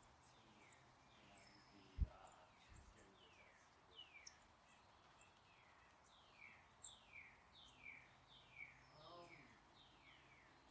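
Birds singing faintly: runs of quick descending whistled notes, several a second, with one dull low thump about two seconds in.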